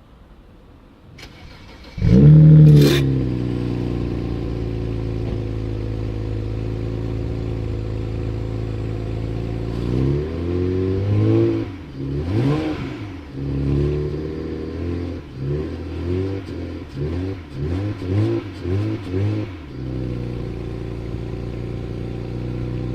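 BMW 320 engine starting about two seconds in and flaring up briefly, then settling to a steady idle through the exhaust. Later it is revved: a couple of longer revs, then a quick run of about eight short throttle blips, before it falls back to idle.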